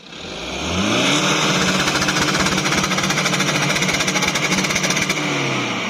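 Car engine revved up over about a second and held at high revs with a fast, even pulsing rattle, then easing off near the end.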